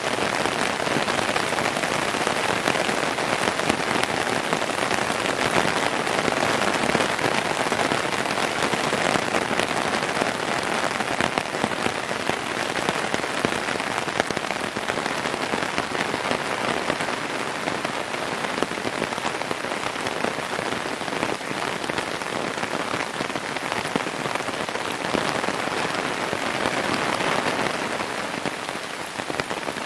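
Heavy rain falling in a downpour: a dense, steady patter with no let-up.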